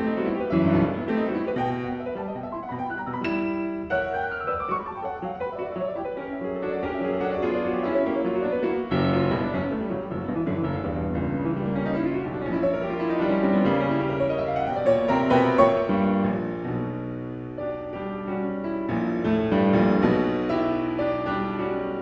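Background piano music, a gentle melody with held notes.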